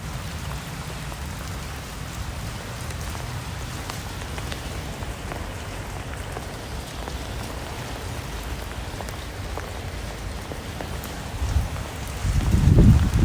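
Steady rain falling on a surface, an even hiss with scattered sharp drop ticks. A louder low rumble swells in over the last second or two.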